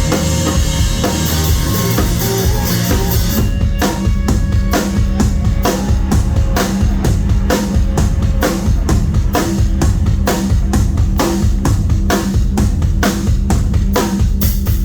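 A live rock band playing loud through the PA, recorded on a phone from the crowd, with the drum kit to the fore. About three and a half seconds in, the cymbal wash drops away and the drums play hard, evenly spaced hits over a held low bass note.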